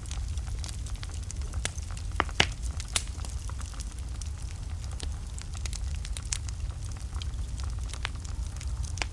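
Wood fire burning in a fireplace: a steady low rumble of flames with scattered sharp crackles and pops of burning logs, the loudest pop about two and a half seconds in.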